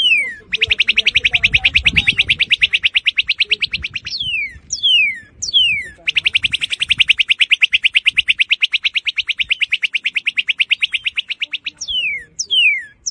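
Northern cardinal singing: clear whistles that slur down in pitch, alternating with two long, fast trills of rapidly repeated notes, each lasting several seconds.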